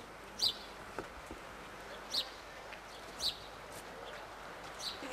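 A bird chirping: four short, high calls spaced a second or so apart, over a faint steady hiss.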